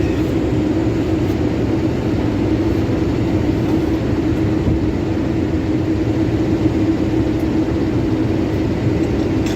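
Heritage diesel locomotive engine running steadily, a continuous low drone with a steady hum in it.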